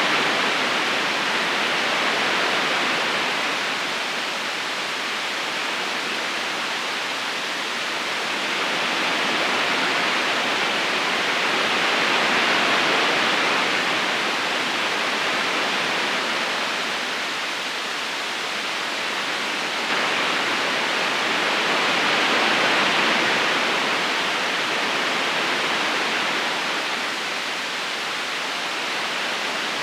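River current rushing steadily, a continuous wash of flowing water that swells and eases slowly about every ten seconds.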